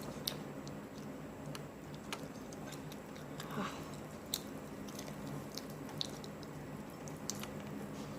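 A person chewing a mouthful of chicken close to the microphone, with scattered sharp wet mouth clicks and smacks at irregular moments.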